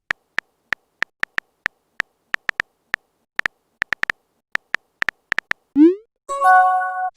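Short, uneven clicks of a phone-keyboard typing sound effect, then near the end a quick rising swoosh and a short chime of several steady tones, typical of message-sent and message-notification sounds in a text chat.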